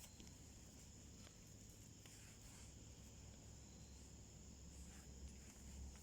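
Quiet, faint crackling of a small wood fire burning in a homemade wood stove, with a few soft pops spread through, over a steady faint high-pitched trill.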